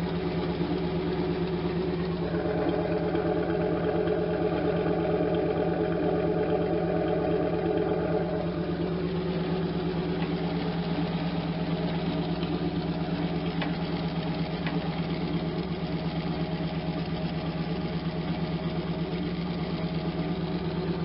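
1992 Camaro Z28's stock L98 350 V8 idling steadily through its stock exhaust and muffler. A little tap comes from an exhaust leak at the spot where the pipe has been worked on.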